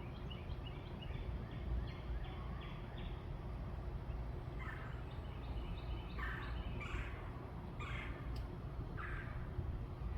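Wild birds calling: a quick run of short, high, repeated chirps for the first few seconds, then four louder, harsh calls spaced a second or so apart. A steady low rumble runs underneath.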